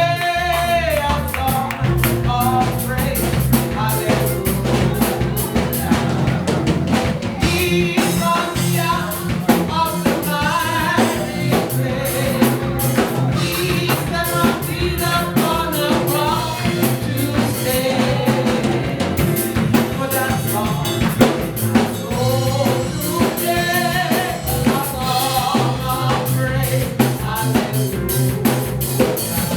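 Live gospel praise-and-worship music: a band with drum kit and bass playing while voices sing.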